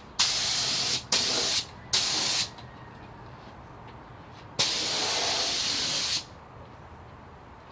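Paint spray gun spraying white base coat in trigger pulls: three short hissing passes close together, then, after a pause of about two seconds, one longer pass of about a second and a half. Each pass starts and stops sharply.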